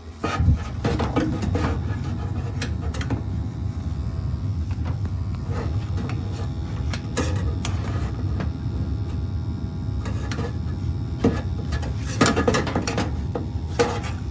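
Gas burner of a Crown hot water boiler lighting just after the start and then running with a steady low rumble, with a few knocks near the end. The burner is still putting out excess carbon monoxide.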